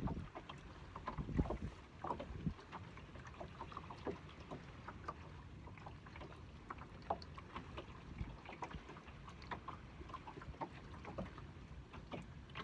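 Small boat on the water: water lapping at the hull, with scattered small clicks, splashes and knocks, one louder cluster of knocks about a second and a half in.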